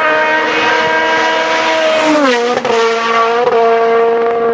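Rally car engine running at high, steady revs; its pitch falls sharply about two seconds in and then holds steady at the lower note.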